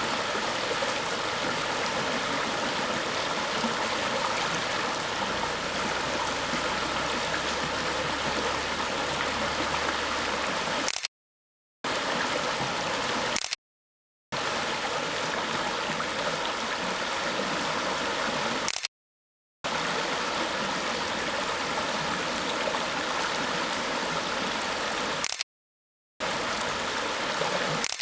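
River water flowing and gurgling in a steady rush, broken four times by brief gaps of silence of about half a second.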